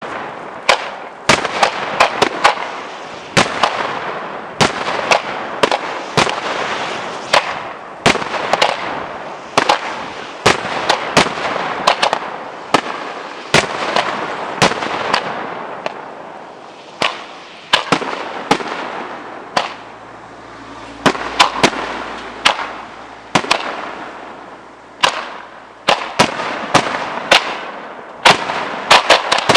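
Aerial fireworks display: a dense, continuous run of sharp bangs from shells bursting, often several in quick succession, with crackling between the bursts.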